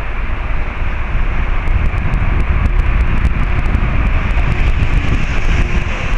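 TEM18D diesel shunting locomotive passing on the line: a steady low rumble of engine and wheels that grows slightly louder about a second in.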